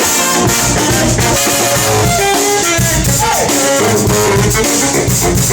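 Brass band playing live: horns playing an up-tempo tune over a drum kit keeping a steady beat, recorded on a phone.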